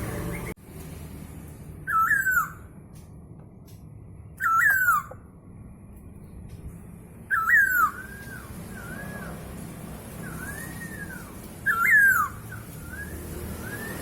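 Masked laughingthrush (poksay hongkong) calling: four loud, short whistled calls a few seconds apart, with softer whistled notes in the second half.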